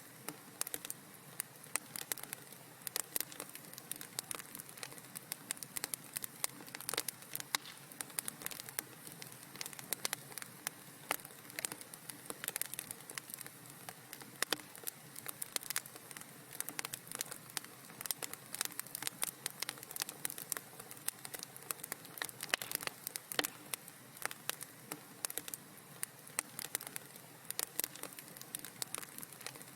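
Fire in a fireplace crackling: a dense, irregular run of small pops and snaps over a soft steady hiss.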